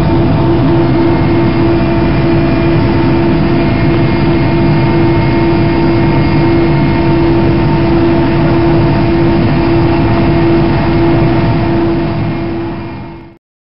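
Helicopter running steadily: a loud, constant whine of several steady tones over a low rumble. It fades out over the last second or so and stops.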